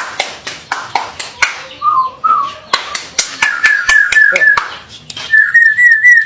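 Male Bali starling calling: sharp clicks in the first half, short warbled whistles about two seconds in, then two runs of fast, wavering whistled trills.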